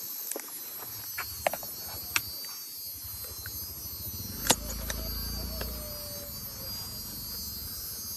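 Steady high-pitched insect buzz, with a few scattered sharp clicks and a soft low rumble midway.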